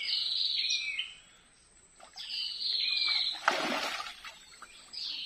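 A songbird singing the same short phrase of high, sliding whistles three times, about every two and a half seconds. About three and a half seconds in there is a short splash of water.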